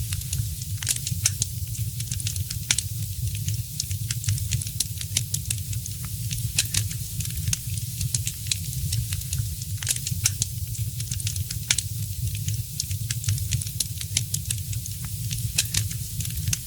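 Wood fire in a fireplace crackling: a rapid, irregular run of sharp pops and snaps over a soft hiss, with a steady low rumble underneath.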